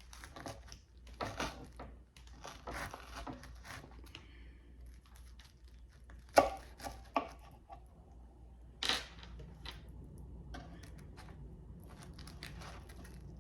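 Knife sawing through a large stacked sandwich, the bread crunching and tearing in short irregular strokes, with a few sharp knocks between about six and nine seconds in.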